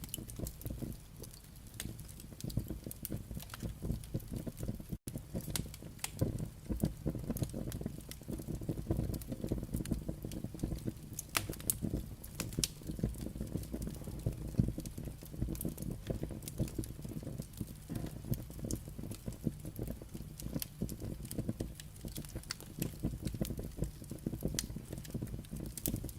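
Firewood burning, with frequent sharp crackles and pops over a low, steady rumble of the fire. The sound cuts out for an instant about five seconds in.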